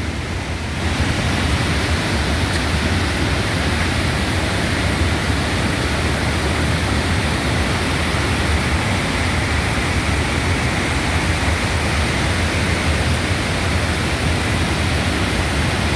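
Barron Falls in full flood after about 9 feet of rain in a week: a loud, steady rush of a huge volume of water pouring over the falls, swelling slightly about a second in.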